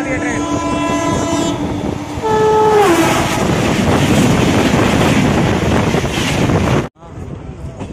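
A train passing close by on the next track, heard from the open door of a moving train. A train horn sounds twice; the second blast drops in pitch as the train goes by. The loud rush and clatter of its coaches follows and cuts off suddenly near the end.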